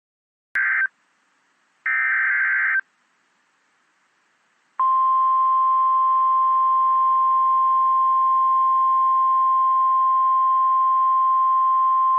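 NOAA Weather Radio emergency alert signalling: the end of one SAME digital header burst and then a full second burst, each a harsh buzzy data screech about a second long. About five seconds in, the steady single-pitch 1050 Hz warning alarm tone starts and holds, the signal that a warning such as a tornado warning is about to be read.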